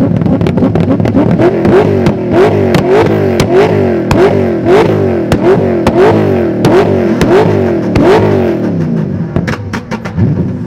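BMW M62B44 4.4-litre V8 being revved repeatedly while standing still, in quick blips of about two a second, each rising in pitch and then dropping, with sharp cracks at many of the peaks. The blipping eases off near the end.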